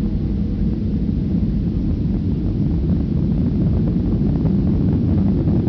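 Boeing 737-800's CFM56 turbofan engines at high thrust, heard from inside the cabin as a steady, loud, deep rumble.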